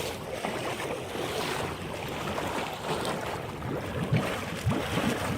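Steady rush of floodwater.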